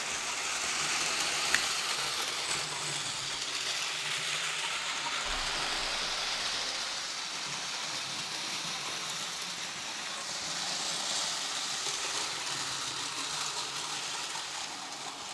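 Freshly restored Märklin 3048 HO-scale model locomotive running along its track: a steady whirring motor and gear noise with the rattle of wheels on rails, swelling and easing a little in loudness, with a single small click early on.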